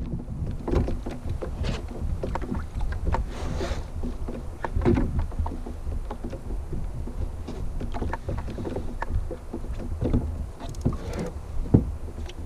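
Kayak paddle strokes splashing in the water, with scattered clicks and knocks, over a steady low wind rumble on the microphone.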